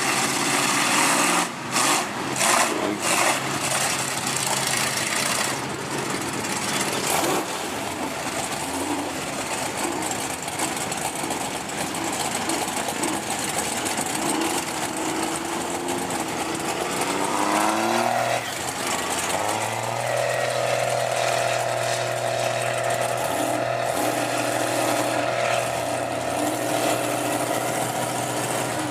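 Diesel truck engine running under heavy background noise, with a few sharp knocks early on. About two-thirds of the way through it revs up in a rising whine, then holds a steady pitch.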